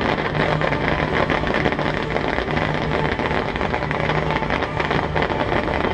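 Fireworks fountains (gerbs) firing steadily from the water: a sustained hiss thick with fine crackling.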